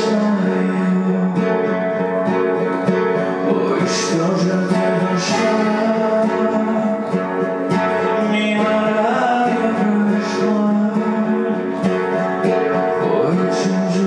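Acoustic guitar strummed in a Belarusian folk song, its chords ringing on under regular strokes.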